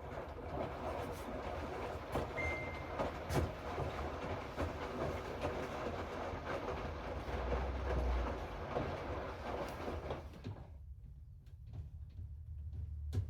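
Hoover washing machine running its cycle with a load of rags, a steady noise of the turning drum over a low hum with scattered clicks, which stops about three quarters of the way through.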